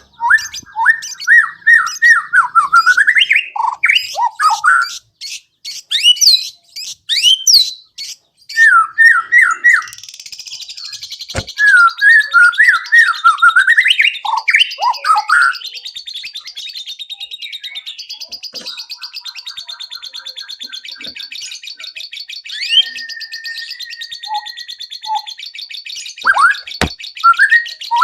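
White-rumped shama singing loud, varied whistled phrases that swoop up and down. From about ten seconds in, a fast, steady high trill joins the song and carries on underneath it, with a few sharp clicks.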